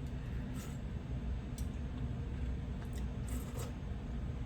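A spoon lightly clinking and scraping in a bowl of soup while eating: a few faint short clicks over a steady low hum.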